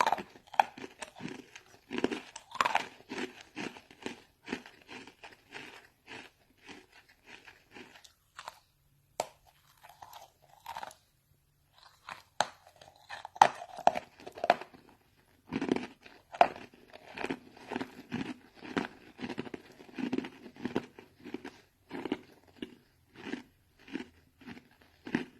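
Pumice stone being bitten and chewed, gritty crunches repeating at a steady chewing rhythm of one to two a second. There is a brief lull about eight seconds in, then the chewing picks up again.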